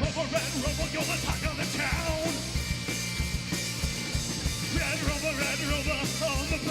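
Rock band playing a fast punk-style song, with a steady bass-and-drum beat and a voice singing over it.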